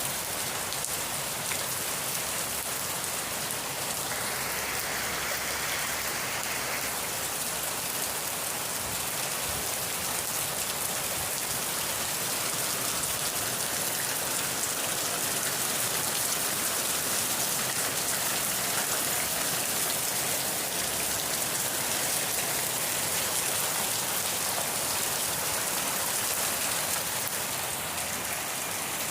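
Steady rain falling, an even hiss of drops that stays constant throughout.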